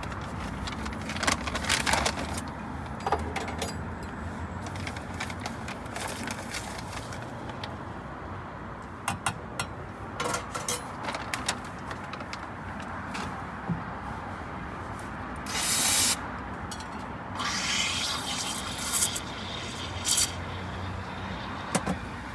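Short clinks, knocks and scrapes of cups and equipment being handled at a coffee van's counter over a steady background hum, with a short loud hiss about fifteen seconds in.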